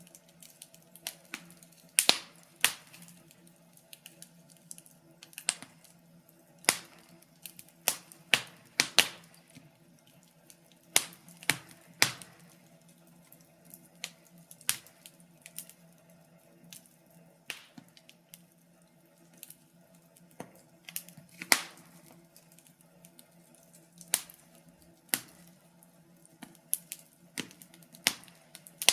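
Wood fire crackling, with irregular sharp pops and snaps at uneven intervals, some loud, over a faint steady low hum.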